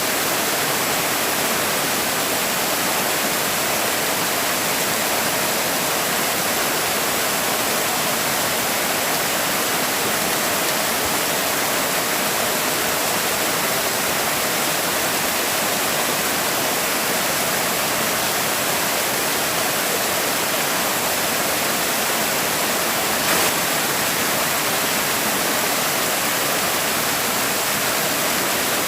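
Forest stream or small waterfall rushing steadily, with a brief click about 23 seconds in.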